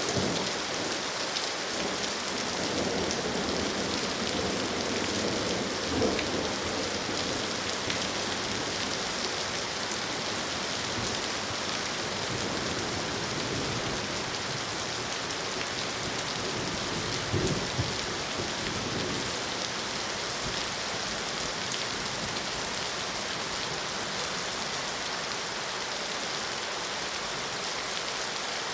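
Steady rain falling, with low rumbling of thunder in the first several seconds. Brief low thuds come about six seconds in and again around seventeen seconds.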